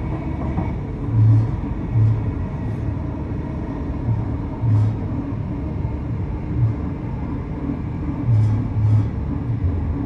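Train running along the track: a steady low rumble with a constant hum, broken by short thumps and faint clacks every second or few.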